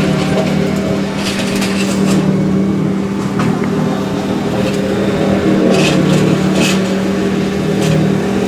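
Dump trailer's hydraulic pump running with a steady hum while it raises the bed to tip out a load of yard waste, with a few short clatters.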